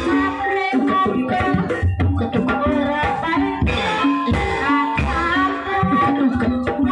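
Live ebeg accompaniment in campursari style: hand drums (kendang) beating a steady rhythm under ringing pitched gamelan-type percussion, with singing over it.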